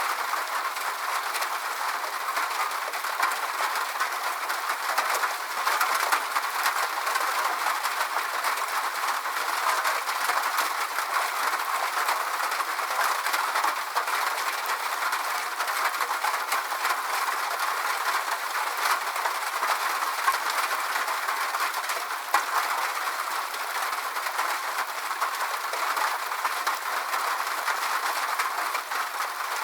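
Steady rain falling: an even patter of drops with many small ticks scattered through it, and almost no low rumble.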